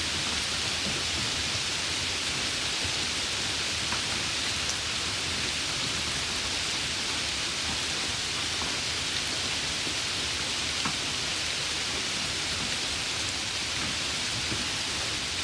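Steady rain falling, an even hiss with a few faint separate drop ticks.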